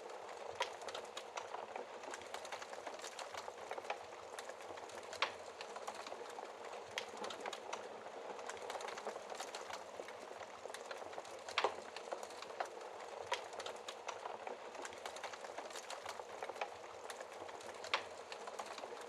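Wood fire burning behind a glass fireplace shield: a steady hiss with scattered crackles and a few sharp pops, the loudest about five, twelve and eighteen seconds in.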